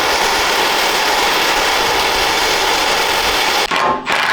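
A power tool running on steel armour plate with a steady, loud, hissing noise, then stopping briefly and starting again in short bursts near the end.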